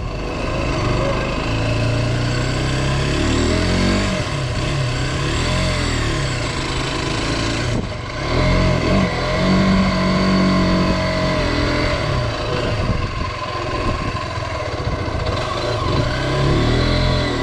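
Derbi Terra 125's single-cylinder four-stroke engine running under way, its revs rising and falling through the gears, with a short drop in loudness about eight seconds in.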